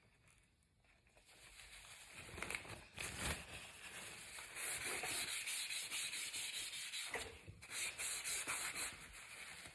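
Colouring strokes on paper: a pastel or pencil rubbed back and forth in quick repeated strokes, starting about two seconds in, with a brief pause near the end.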